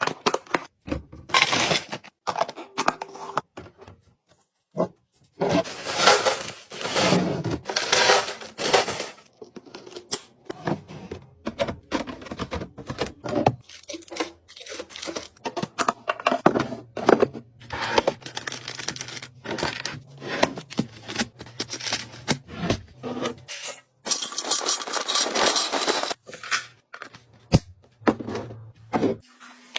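Groceries, containers and packaging being handled while a refrigerator is restocked: a run of clicks and knocks as items are set down, with stretches of rustling and crinkling.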